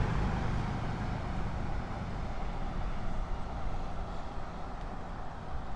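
Steady, fluttering low rumble from riding an electric unicycle along a street: wind and rolling noise picked up by the rider's camera.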